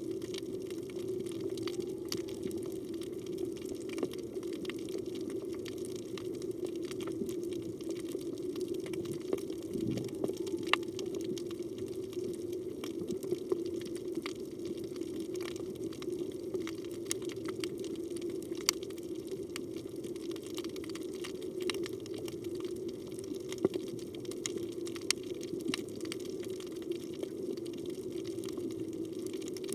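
Underwater sea ambience: a steady low rushing hum with many scattered sharp clicks and crackles throughout.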